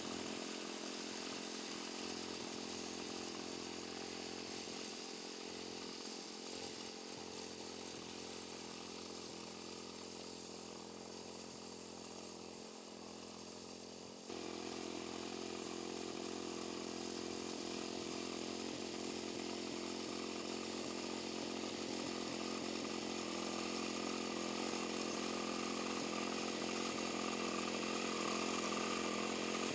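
Wing mower's small engine running steadily while cutting grass. It fades a little, then turns abruptly louder about halfway through and keeps growing slowly louder.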